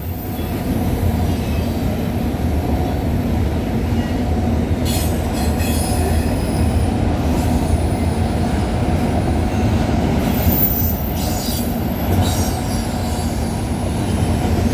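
Mixed manifest freight cars of a CPKC freight train rolling past at track speed, a steady rumble of wheels on rail. Brief high-pitched wheel squeal comes in about five seconds in and again around eleven seconds.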